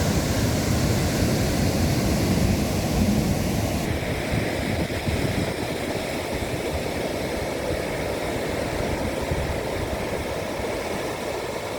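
Heavy Atlantic surf breaking and washing in, with strong wind buffeting the microphone into a deep, steady rumble. The higher hiss thins out about four seconds in.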